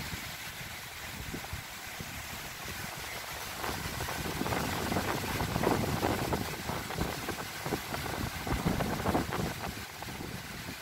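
Strong, gusty windstorm blowing through trees and foliage, with wind buffeting the microphone; a stronger gust builds about four seconds in and eases near the end.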